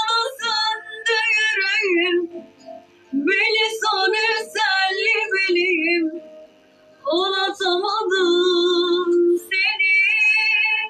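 A woman singing solo in three phrases with short pauses between them, with vibrato on the held notes.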